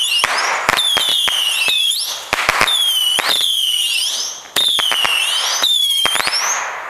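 Whistling fireworks going off in quick succession: a string of shrill whistles, about one a second, each sliding down a little and then sweeping up in pitch, with sharp cracks and pops between them.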